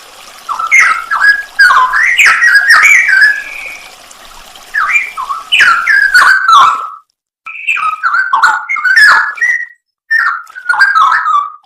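Straw-headed bulbul (cucak rowo) singing loud, bubbling whistled phrases in four bursts separated by short pauses.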